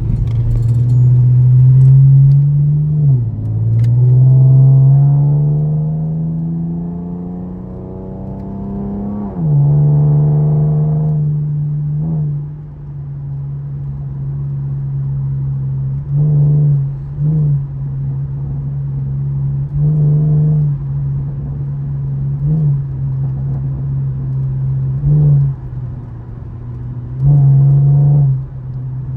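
2013 Camaro LS's 3.6-litre V6 pulling up through the gears, rising in pitch with a shift near 3 s and a sharp drop at the upshift about nine seconds in. It then cruises at a steady engine speed, with several brief louder bursts of throttle.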